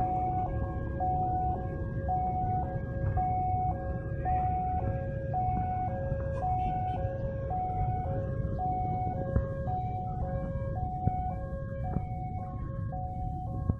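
Electronic two-tone railway level-crossing warning alarm, alternating between a high and a low tone about every half second, over a steady low rumble.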